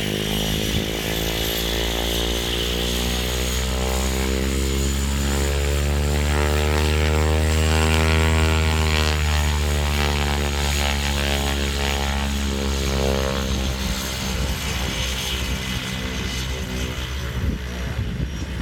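Cessna 208 Caravan's single Pratt & Whitney PT6A turboprop engine and propeller running, with a high turbine whine over the propeller sound, growing louder to a peak about eight seconds in and then fading as the plane departs.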